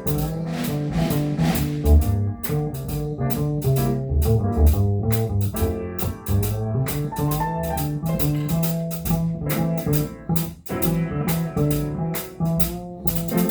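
Instrumental jazz from a small combo: plucked guitar over a moving bass line and drum kit.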